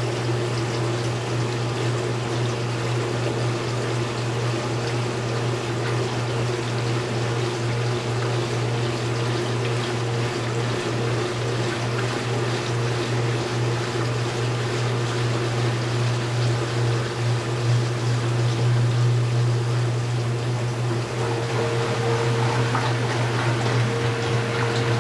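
Speed Queen top-load washing machine running mid-cycle: a steady hum with water rushing. About 21 seconds in, a higher steady tone joins and the sound grows slightly louder.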